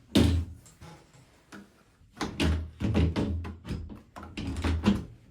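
Washing machine top panel being set back on and slid into place: a sharp thunk at the start, then a run of knocks and rattles from about two seconds in.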